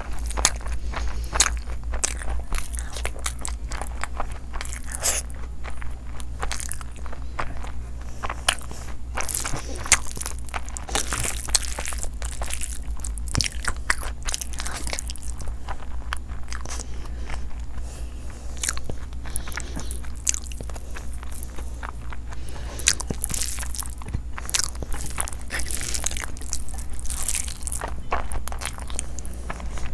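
Close-up mouth sounds of someone eating by hand: wet chewing, smacking and crunching of mouthfuls of biryani rice and chicken, many short clicks in quick succession. A steady low hum runs underneath.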